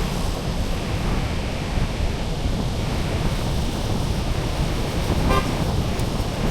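Steady street and wind rumble, with one short toot of a vehicle horn a little over five seconds in.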